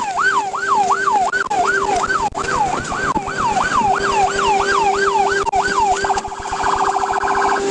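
Police patrol car's electronic siren in yelp mode, sweeping up and down about three times a second over a steady hum. About six seconds in it switches to a faster, pulsing warble.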